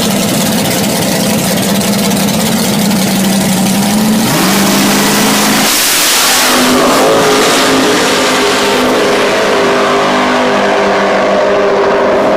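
A 1968 Plymouth GTX's V8 idles loudly at the drag-strip starting line. About four seconds in it revs up, then launches with a loud blast just before six seconds and accelerates hard away down the track, its sound shifting and fading as it goes.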